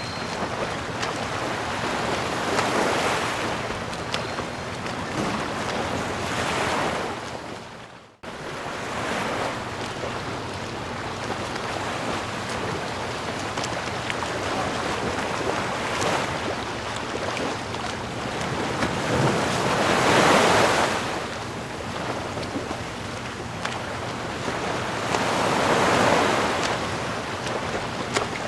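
Ocean surf: waves breaking and washing ashore, swelling and fading every few seconds over a continuous rush of water. The sound drops out briefly about eight seconds in, then resumes.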